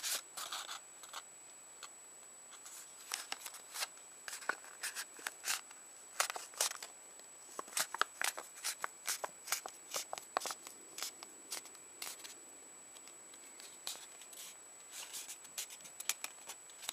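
A square of paper being folded by hand: irregular crisp rustles and taps, with quieter stretches in between. A faint steady high-pitched whine sits under it.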